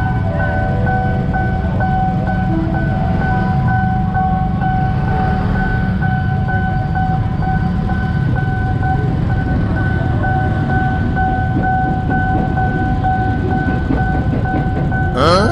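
Railway level-crossing warning bell giving a continuous, evenly repeating electronic two-tone ding. Underneath is a low rumble from idling motorbikes and an electric commuter train pulling away. A brief sweeping whoosh comes just before the end.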